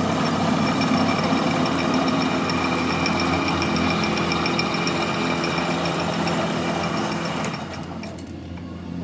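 Workshop machine running steadily with a hum and a faint, even ticking; it drops away about eight seconds in.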